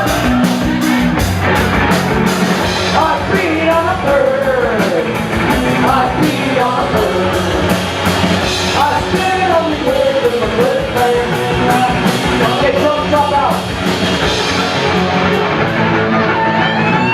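Live rock music with a steady beat and a wavering lead voice or instrument line over it.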